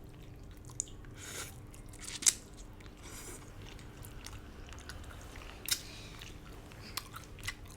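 Close-miked chewing and biting of a mouthful of braised duck and noodles, with scattered sharp clicks and crunches. The loudest click comes about two seconds in and another near six seconds.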